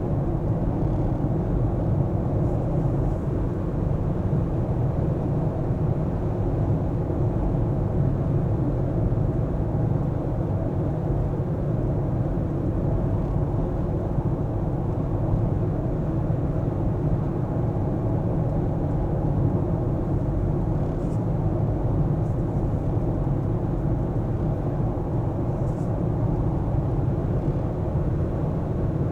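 A car being driven at a steady pace: a constant low rumble of engine and tyre noise.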